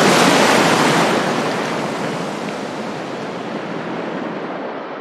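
Ocean waves washing in, a steady rush that is loudest in the first second and then eases off.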